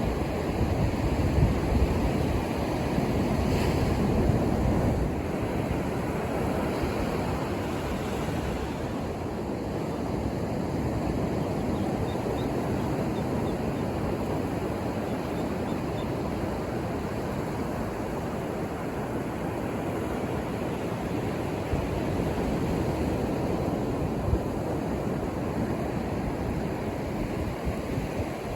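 Ocean surf washing onto a beach: a continuous low rushing of breaking waves, a little louder in the first few seconds, with some wind on the microphone.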